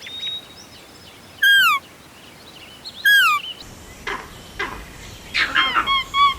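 Animal calls: whistled calls, each sliding down in pitch, about a second and a half apart. After a change of background there are a few clicks, then a quick run of short, even chirps, several a second.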